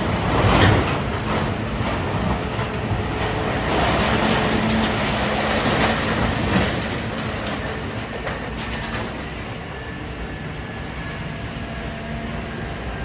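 Idromec T 650 CLS scrap metal shear baler at work: metal crunching and clattering over a steady hum, loudest in the first second and again from about four to six and a half seconds in, quieter after about eight seconds.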